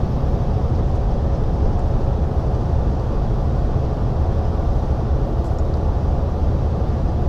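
Steady drone of a Volvo truck's diesel engine and road noise heard from inside the cab, cruising at highway speed while pulling B-double trailers.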